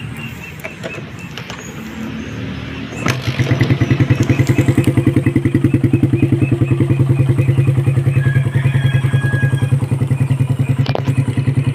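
Suzuki Raider first-generation motorcycle engine catching about three seconds in, then idling with a fast, even pulse, freshly rebuilt with a shimmed head and a 28 mm carburettor.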